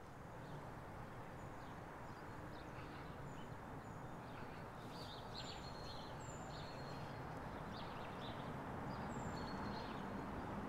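Small birds chirping in short, high calls over a steady background hum of outdoor ambience.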